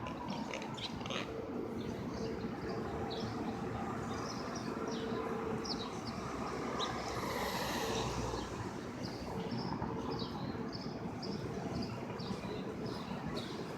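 Many short chirps from small birds over a steady hum of city traffic, which swells louder about halfway through.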